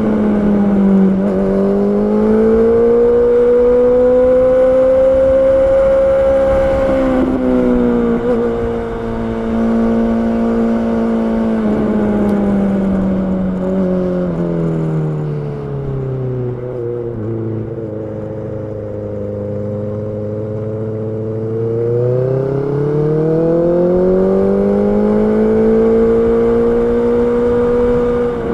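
Honda CB650R's inline-four engine running under way. The note holds steady, falls through the middle as the bike slows, stays low for a few seconds, then rises again as it accelerates.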